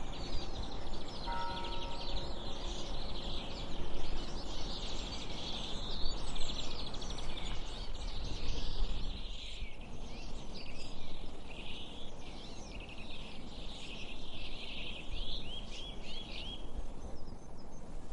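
Outdoor nature ambience: insects trilling in a dense pulsing chorus, with bird calls and a run of quick rising chirps near the end, over a low background rumble.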